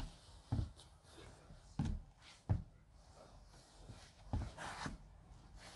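Footsteps of sneakers on a wooden floor: about five dull, uneven thuds, with a short scuff near the end.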